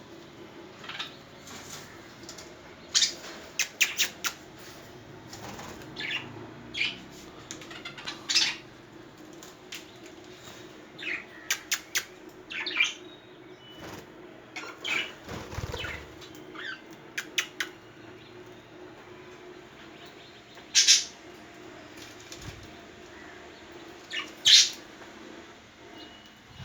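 Pet budgerigar pecking and cracking seed treats with its beak: irregular sharp clicks, some in quick runs of three or four, over a faint steady hum.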